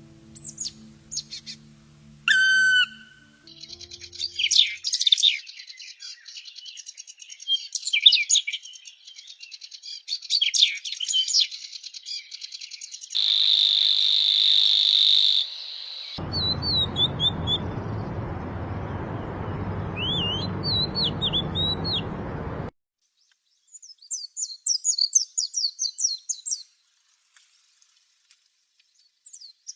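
A series of different songbird recordings spliced together with abrupt cuts: dense high chirping and whistling, then a loud steady high buzzing trill for a couple of seconds, then scattered bird notes over a rushing background, then rapid high notes near the end. Faint steady low tones fade out in the first few seconds.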